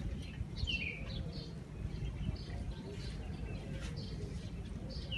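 Small birds chirping: short, scattered high chirps, one a quick falling note about a second in, over a low steady background rumble.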